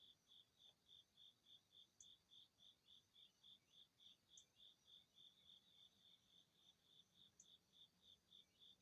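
A cricket chirping faintly in an even, steady rhythm of about three to four chirps a second, with a few brief, higher-pitched ticks over it.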